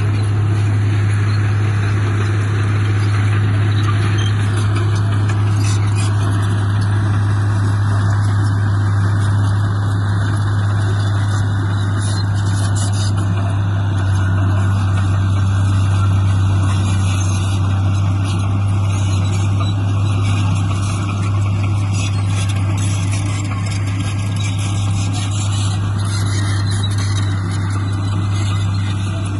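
Diesel engine of a heavy construction machine running steadily, with a strong low hum and constant mechanical noise.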